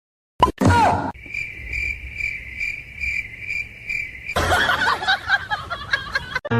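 Cricket-like chirping: a high chirp repeating evenly, about three times a second, for a few seconds. It comes after a short loud sound about half a second in, and a dense jumble of noise follows near the end.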